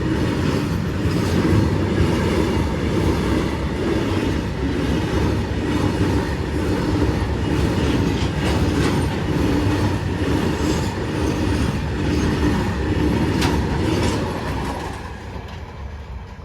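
Long freight train's wagons rolling past on the rails, the wheels clicking over the rail joints in a steady rhythm. The sound fades away near the end as the train passes.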